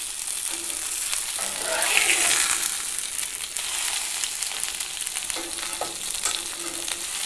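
Salmon pieces searing in hot olive oil in a cast-iron pan: a steady sizzle with scattered spattering crackles, a little louder about two seconds in, and the scrape of a metal spatula as the pieces are turned.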